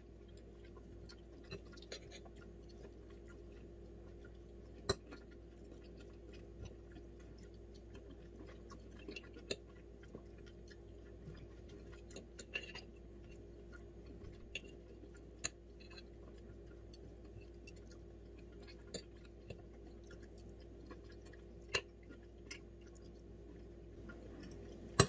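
Close-up chewing and mouth sounds of someone eating bite-sized salmon pieces, with scattered sharp clicks of a metal fork against a ceramic plate, the loudest about five seconds in and near the end. A faint steady hum runs underneath.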